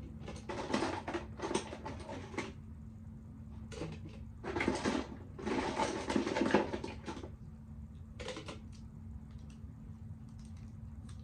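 Plastic makeup items such as mascara tubes and eyeliner pencils being handled, clicking and rattling as they are put into a container, in two longer bursts and a short one. A steady low hum runs underneath.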